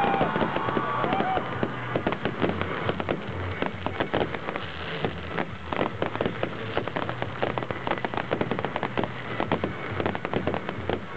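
Aerial fireworks going off in rapid succession: a dense, continuous stream of pops, bangs and crackles from bursting shells.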